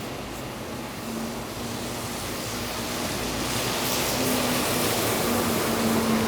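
A motor vehicle approaching on a snowy, wet street: tyre hiss swells steadily, with a low engine hum under it, loudest near the end.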